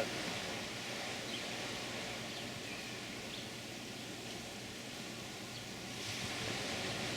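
Steady wash of ocean surf, swelling slightly near the end, with a few faint bird chirps.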